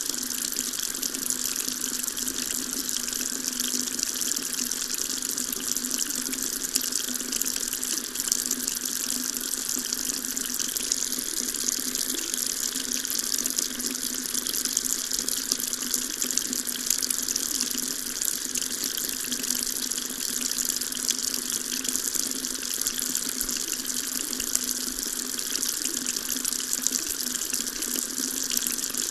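Water tap running steadily into a sink, a constant splashing hiss.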